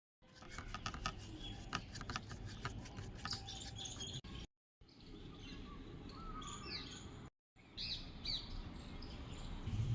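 Small birds chirping and calling: a quick run of short sharp chirps, then short high calls falling in pitch. The sound cuts out to silence briefly a few times.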